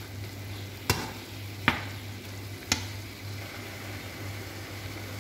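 Shredded chicken, spinach and onion sizzling in a frying pan, with three sharp knocks about a second apart in the first three seconds as sour cream is spooned in.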